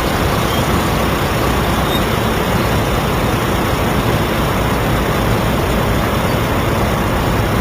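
Steady, loud rumble of a running vehicle engine, with no change in pace.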